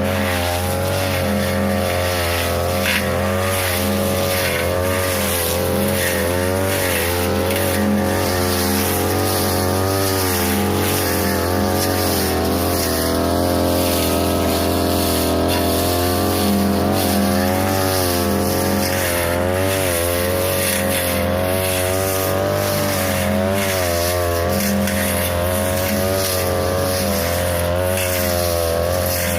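42cc two-stroke brush cutter running near full throttle with a metal blade, its engine pitch dipping and recovering again and again as the blade bites into tall grass and brush.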